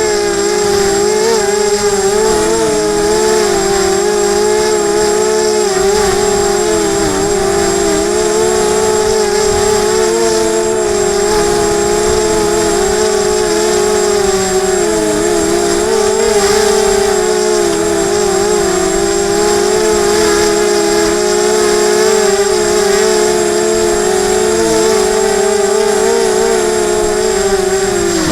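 Electric motors and propellers of an Emax 250 racing quadcopter in flight, a steady whine whose pitch wavers up and down as the throttle changes. Right at the end the pitch drops sharply and the sound cuts off as the flight battery runs flat.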